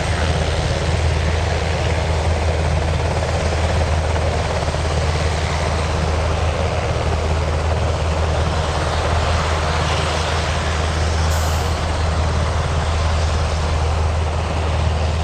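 Helicopter running with a loud, steady rotor and turbine noise, heavy in the low end, that cuts off abruptly just after the end.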